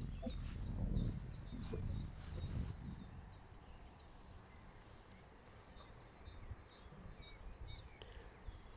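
Small songbirds chirping and trilling in many short calls, with a low rumbling noise under them for the first three seconds that then fades.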